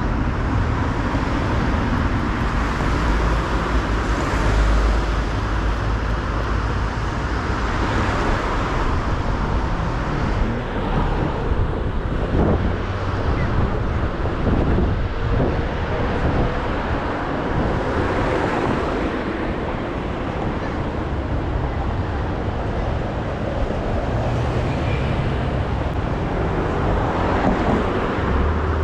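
City road traffic running steadily past, with several vehicles swelling by in turn and wind rumbling on the microphone.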